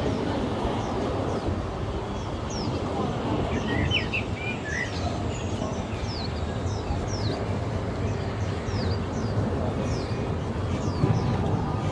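Birds chirping in a run of short, quick falling chirps, with a brief cluster of lower twittering about four seconds in. Under them is the steady low rumble of a steam train's passenger car rolling along the track.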